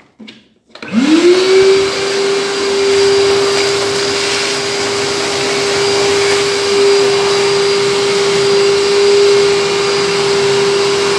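Graphite 59G608 40-litre construction vacuum cleaner switched on about a second in. Its motor spins up with a quickly rising whine, then runs steadily with a constant whine over a rush of air while sucking.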